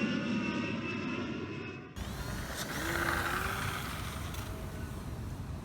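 The RC plane's small brushless electric motor whining at a steady high pitch. It cuts off abruptly about two seconds in, giving way to open-air wind noise with a brief faint rising whine.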